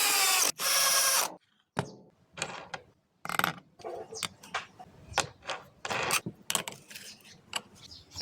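A power tool runs in two short bursts of about a second each, then comes a series of short, irregular scrapes and knocks of tool work.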